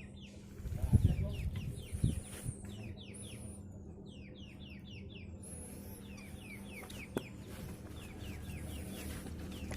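Birds calling in quick runs of short, falling chirps. There are low thumps about a second and two seconds in, and a single sharp crack about seven seconds in.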